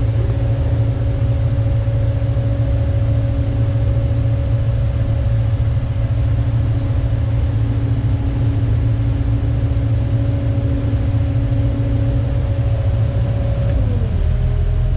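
Kubota excavator's diesel engine running steadily with a constant whine over a low hum; about 14 seconds in, the whine drops in pitch.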